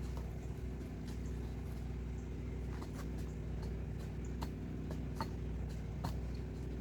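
A mini truck's engine idling steadily with a low hum, with scattered sharp clicks and knocks over it.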